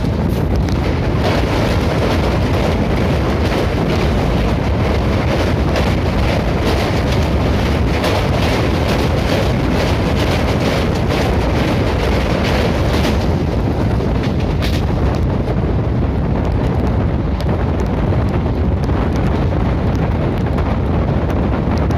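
Passenger train running at speed, heard from on board: heavy wind buffeting the microphone over the steady rumble of the running gear, with a rapid clatter of wheels over the rails.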